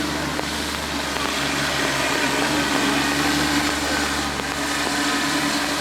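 Tractor engine running steadily over a broad wash of noise, its note rising slightly about two seconds in.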